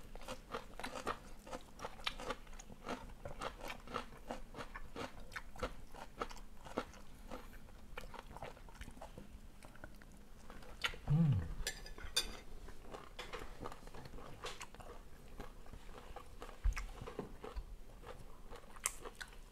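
A person chewing and crunching food close to the microphone: a steady run of small crisp crunches. About eleven seconds in there is a short, low voice sound that falls in pitch.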